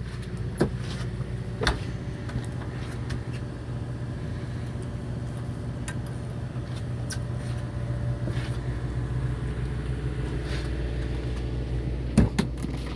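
Steady engine hum aboard a small fishing boat at anchor, with a few sharp clicks and knocks on deck.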